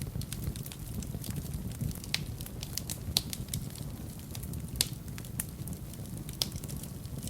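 Wood fire burning in a fireplace: a steady low rumble of the flames with frequent small crackles and a few sharper pops, the loudest about three seconds in and near five and six and a half seconds.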